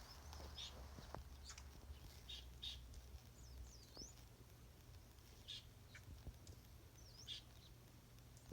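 Wild birds chirping faintly: scattered short high calls every second or so, a few of them sliding down and back up in pitch. A steady low rumble sits underneath.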